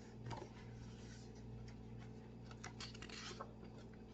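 Faint paper rustling and scratching from a picture book's pages being handled: brief rustles about a third of a second in and a denser cluster a little past halfway, over a low steady hum.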